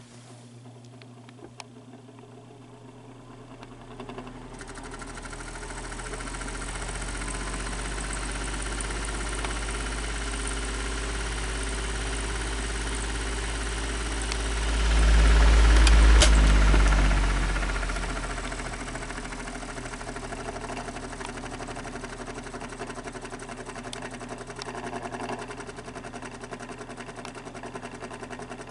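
Electric fan motor with badly worn bearings running up to speed, with a scratching, rubbing noise over a low hum. The hum swells loudest about halfway through, then eases back. The owner's theory is that the rotor has so much end play that it pushes back and rubs on the motor casing at the bearing.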